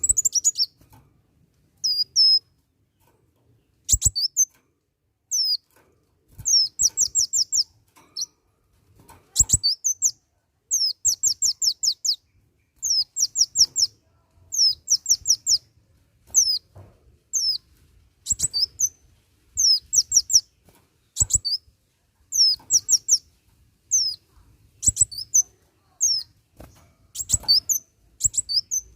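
Kolibri wulung sunbird singing: short bursts of rapid, high, thin chirps, each note sliding downward, repeated every second or two. A few sharp clicks come in among the phrases.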